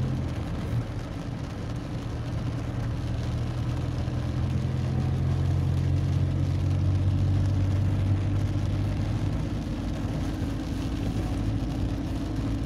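A car engine running steadily, heard from inside the cabin as a low, even hum.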